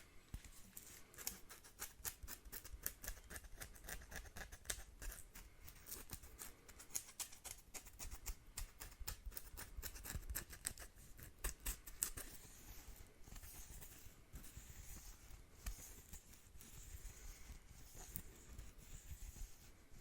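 A household broom's bristles crackling and rustling, with a dense run of sharp crackles that eases about twelve seconds in to a softer, steadier swishing hiss.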